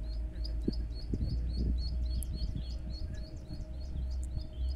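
A bird calling a fast, even series of short high chirps, about four or five a second, over a low rumble of wind on the microphone, with a few soft handling noises in the first half.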